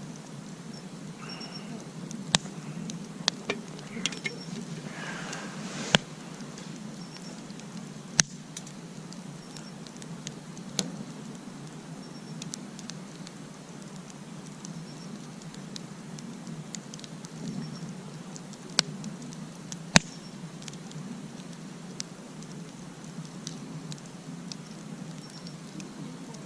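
Campfire burning, with sharp crackles and pops every second or two over a steady low hiss.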